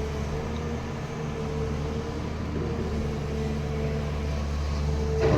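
A steady, even drone of a running engine or motor, holding one pitch, with a single short knock near the end.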